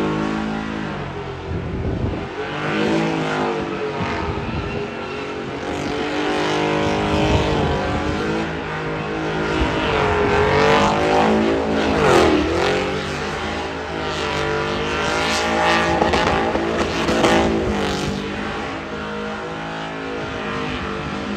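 High-horsepower truck engines revving hard, rising and falling in pitch again and again, with a sharp pass about twelve seconds in.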